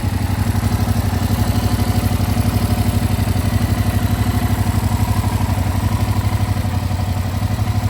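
Yamaha MT-07's 689 cc parallel-twin engine idling steadily, with an even, rapid pulse.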